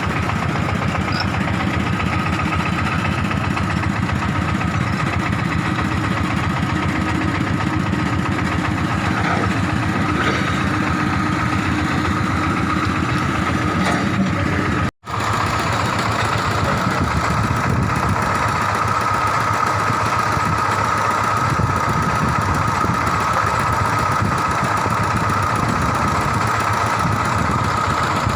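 Excavator diesel engine running steadily at idle, with a steady whine over the engine noise; the sound cuts out for an instant about halfway through.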